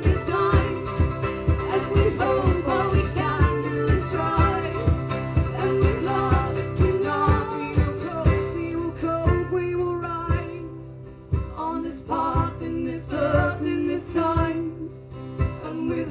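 Live band music: an instrumental passage of a song with steady bass and rhythmic strummed or plucked notes. About two-thirds of the way through it drops to a quieter, sparser stretch, then builds again near the end.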